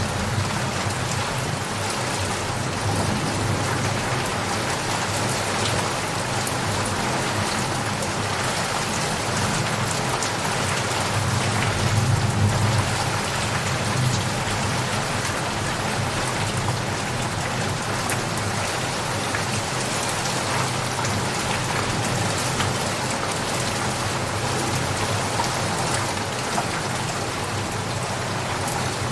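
Steady rain falling on surfaces, an even patter of drops, with a low rumble of thunder that swells briefly near the middle.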